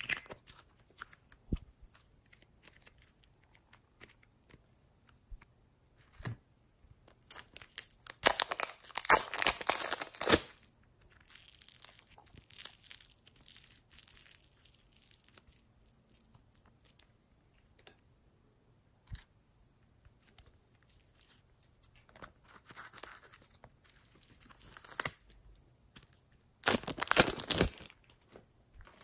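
Slime being stretched, pulled and pressed by hand, crackling and popping in bursts. There are two loud stretches of crackling, one about eight seconds in lasting some three seconds and a shorter one near the end, with quieter crackling between them.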